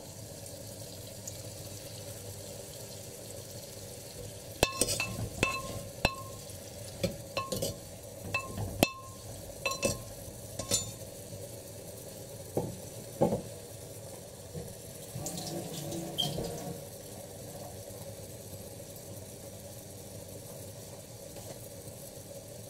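Tomatoes and spices frying in a clay pot with a steady low sizzle. From about five seconds in, a run of about eight sharp, ringing clinks of utensils against the clay pot and its lid comes over some six seconds, then a couple of duller knocks and a short scraping rattle.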